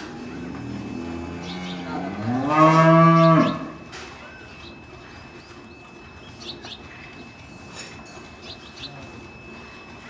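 One long moo from a bovine, starting low and rising in pitch about two seconds in, loudest just before it stops at about three and a half seconds.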